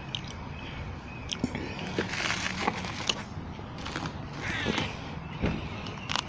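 Sounds of eating buffalo wings: scattered short clicks and a few brief crunchy rustles over a steady low background noise.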